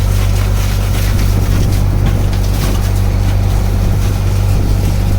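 Wooden fishing boat's engine running steadily, a constant low hum with wind and water noise over it.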